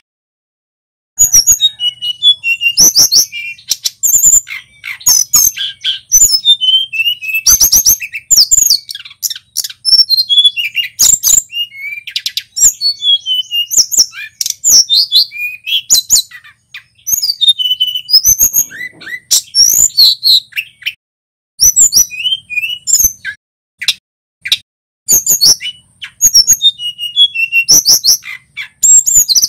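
Male tledekan gunung singing a loud, rapid string of high whistles and chirps that sweep up and down in pitch, in bursts broken by short pauses; the song starts about a second in.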